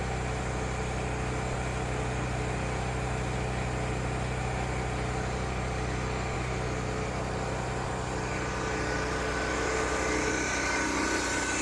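Steady engine hum from the pressure-washing equipment, running without a break, with a spray-like hiss over it.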